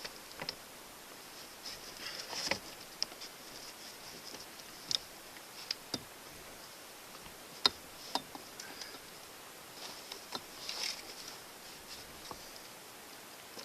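Camp gear being handled: scattered light clicks and taps with a couple of short rustles, irregular and sharp, the loudest a single click about two-thirds of the way through.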